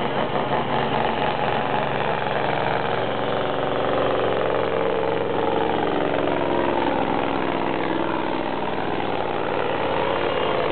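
Scania V8 truck engine running hard and steadily under load as it pulls the sled, its pitch holding nearly level throughout.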